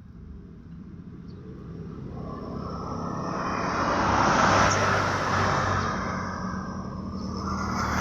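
A road vehicle passing by, its engine and tyre noise swelling to a peak about halfway through, fading, then a second vehicle approaching near the end.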